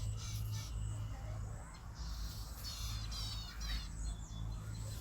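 Birds calling outdoors, with a quick run of repeated high chirps about halfway through, over a low steady hum.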